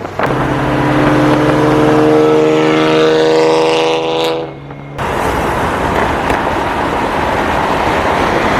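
Straight-piped BMW M4 F82's twin-turbo inline-six exhaust holding a steady, even drone, fading out about four seconds in. About five seconds in it cuts suddenly to a loud, even rushing noise of the car at speed.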